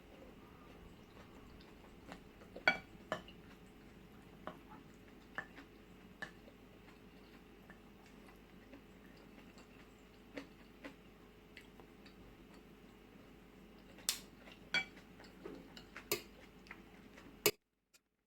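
Cutlery clinking against a bowl and dish now and then, a scattering of short sharp clicks over a faint steady room hum. The sound cuts off suddenly near the end.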